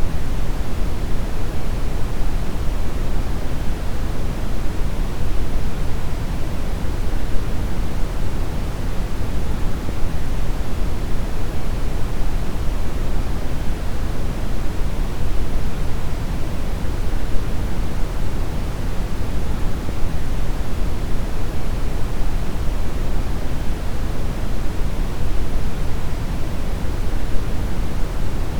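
Steady synthetic brown noise: an even, deep rushing hiss, strongest in the bass and rolling off toward the treble, with no changes or events.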